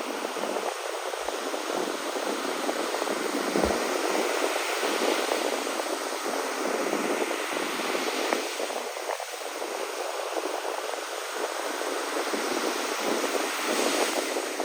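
Sea waves washing on a shore, a steady rush of surf that swells and eases slowly.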